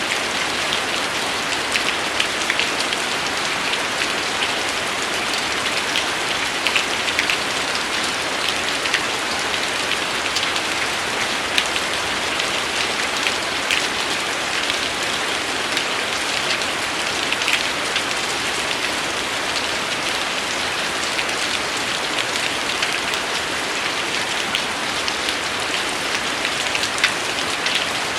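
Steady rain falling, a dense even hiss with many sharp individual drop hits scattered through it.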